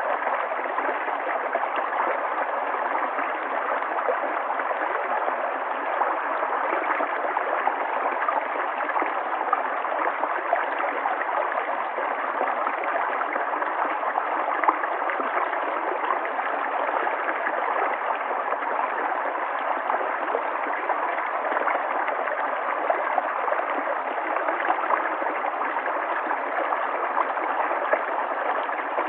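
River water flowing over stones, a steady rushing and babbling that neither rises nor falls.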